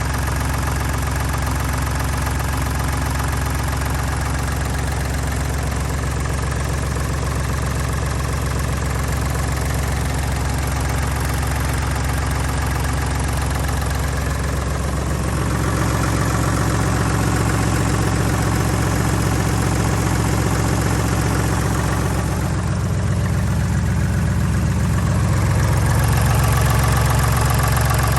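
Deutz D5206 tractor's air-cooled three-cylinder diesel engine running steadily at low speed, a little louder from about halfway through and again near the end.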